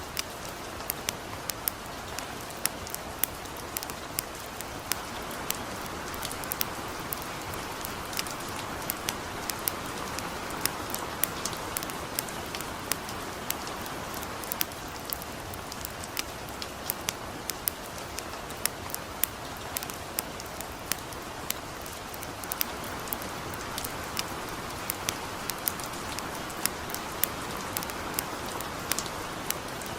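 Light rain mixed with a crackling campfire: a steady, even hiss, with frequent sharp pops and crackles, several a second.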